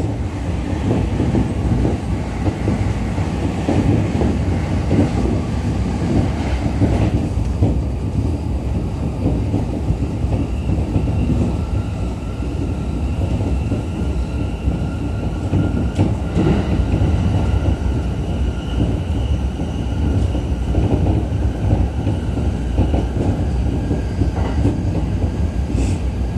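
Running noise inside a JR East E231-series electric commuter train car at speed: a steady rumble of wheels on rail. A faint steady high whine comes in about ten seconds in and fades near the end.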